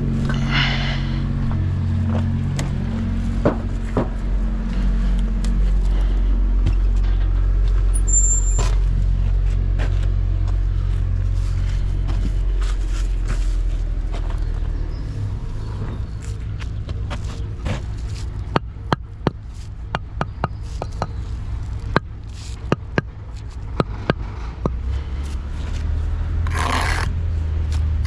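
An engine running steadily with a low hum that drops off about halfway through. It is followed by a scatter of sharp knocks and scrapes, with short hissing bursts near the start and near the end.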